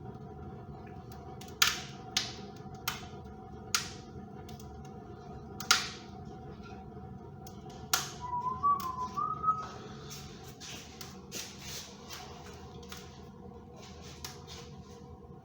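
Wood fire burning in a stove-fireplace firebox: irregular sharp crackles and pops, with a brief warbling whistle about halfway through and then a few seconds of hissing.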